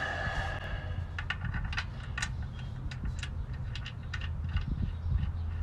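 Irregular metal clinks and rattles of tools and parts being handled, starting about a second in, over a steady low hum.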